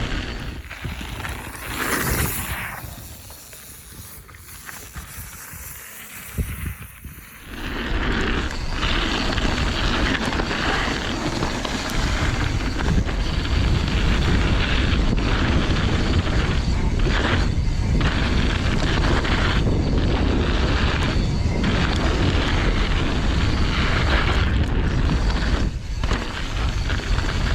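Wind buffeting a mountain bike rider's camera microphone, a heavy noisy rumble, with the tyres rolling over snowy dirt. It dips for a few seconds near the start, then returns loud and steady.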